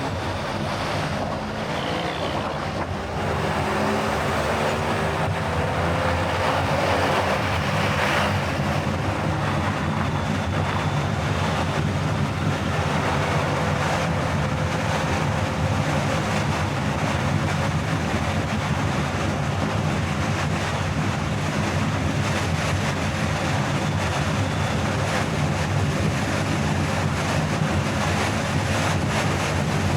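A car driving at speed: steady engine hum with tyre and wind noise, a little louder after the first few seconds.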